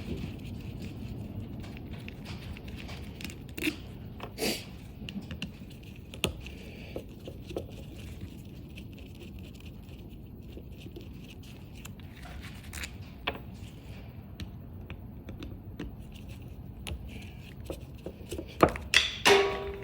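Wind outside, a steady low rumble, under scattered small clicks and rattles of snowmobile fuel pump parts being handled and taken apart. Several louder clatters come close together near the end.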